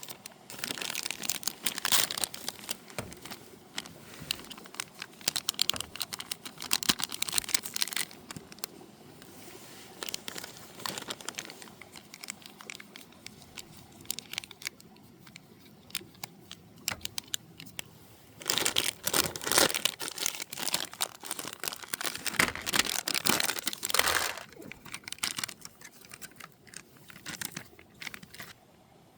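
Crinkly material being handled and crumpled, in irregular rustling, crackling bursts with a few louder flurries.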